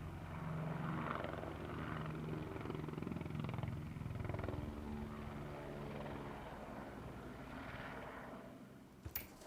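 A vehicle engine running steadily, fading away near the end, followed by a couple of short clicks.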